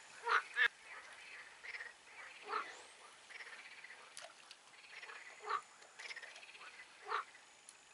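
Frogs croaking: a faint continuous chorus with louder single short croaks every second or two.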